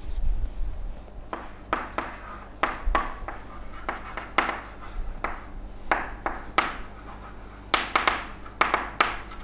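Handwriting: a run of short, irregular scratching strokes of a pen on a writing surface, over a low steady hum.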